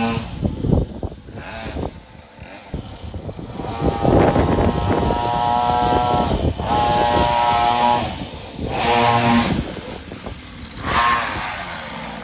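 A 50cc pull-start pit bike engine revving up and easing off several times as the bike is ridden. There are scattered knocks in the first couple of seconds.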